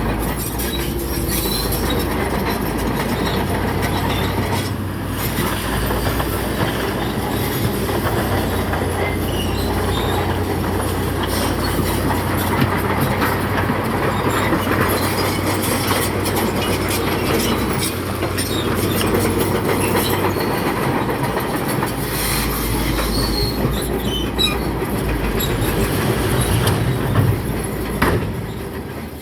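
Crawler bulldozer at work: its diesel engine runs steadily while the steel tracks clank and squeal over rock.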